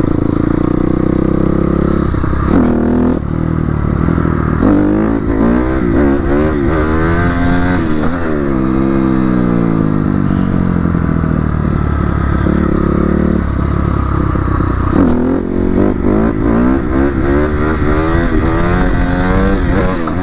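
Dirt bike engine revving up and dropping back again and again while being ridden, its pitch climbing and falling several times over a steady low rumble.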